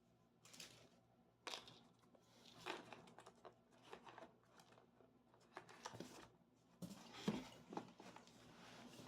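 Soft, irregular rustling, crinkling and scraping of gift-box packaging being handled and unwrapped, in a series of short strokes, the loudest about seven seconds in.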